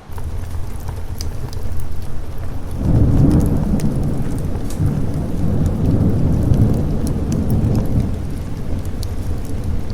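Thunderstorm: a deep rolling thunder rumble over steady rain. The rumble comes in suddenly, swells about three seconds in and rolls on before easing, with scattered sharp ticks above it.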